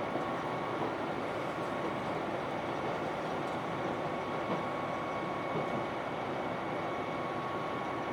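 JR Hokkaido KiHa 261 series diesel limited-express train running at speed, heard as a steady rumble and rush of running noise with a faint steady high whine over it.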